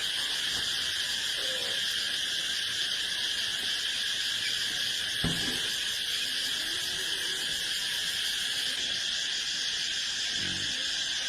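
Steady chorus of calling insects, with one short knock about five seconds in.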